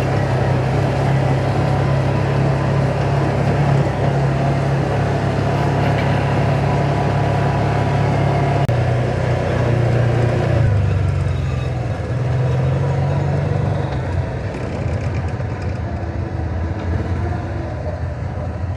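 Side-by-side UTV engine running steadily as the machine drives along. About ten seconds in, the engine note drops lower and the running eases off.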